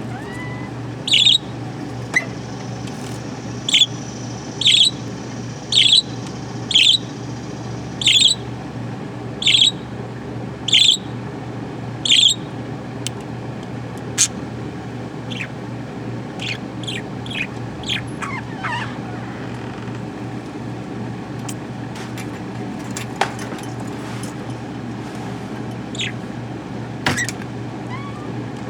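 Pet budgerigar calling: a run of short, sharp chirps about one a second, then softer scattered chirps and a brief falling warble, over a steady low hum.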